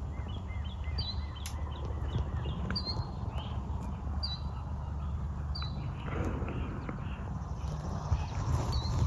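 A small bird repeating a short, high, downward-sliding chirp about once a second, thinning out after the middle, over a steady low rumble of wind on the microphone.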